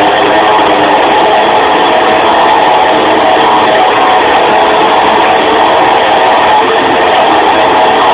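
Strong wind howling loudly and without a break, a steady rush with faint sustained whistling tones running through it.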